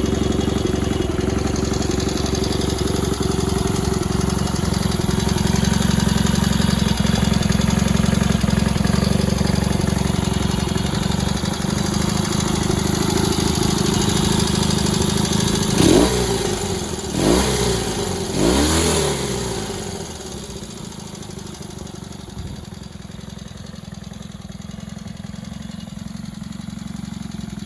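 Honda CL72's 250 cc parallel-twin engine running after a carburettor overhaul. It is blipped three times in quick succession a little past halfway, each rev rising and falling back, then it settles to a lower, quieter idle.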